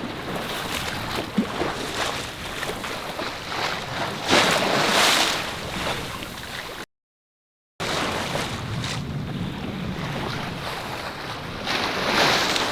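Sea water rushing and washing past a sailing yacht's hull, with wind buffeting the microphone. Two louder surges come as waves wash by, one about four seconds in and one near the end, and the sound drops out completely for about a second just past the middle.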